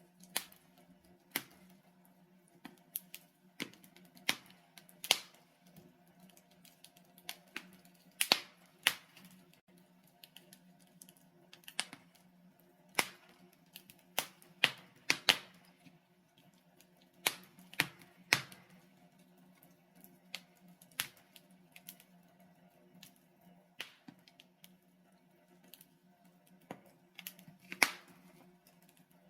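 Log fire in a fireplace crackling, with irregular sharp pops and snaps, some in quick clusters and some isolated, over a faint steady low hum.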